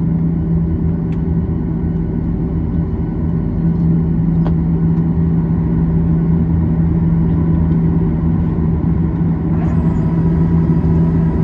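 Steady cabin hum inside a Boeing 737-800 on the ground, a loud low drone with a strong even tone, and a couple of faint ticks. Near the end a thin high-pitched whine joins in and holds steady.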